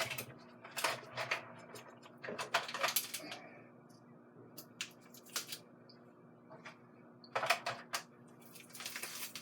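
Irregular clicks and short rattles of a container lid being pried and twisted open by hand, in several separate bursts with pauses between.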